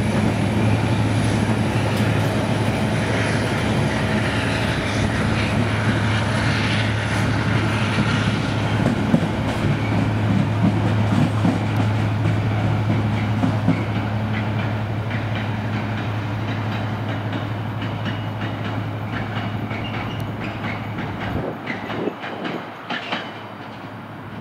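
Freight train of open ore wagons rolling past, wheels clattering over the rail joints. The sound slowly fades as the last wagon goes by and draws away, with a few sharper clacks near the end.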